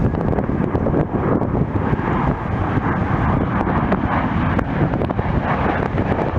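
Jet airliner engines running as a plane passes, a steady noise with wind buffeting the microphone.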